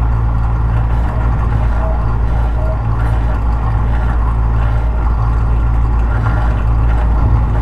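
Tobu 50090 series electric train running along the track, heard from inside the car near the floor: a steady low rumble of wheels and underfloor equipment, with a few faint short squeals.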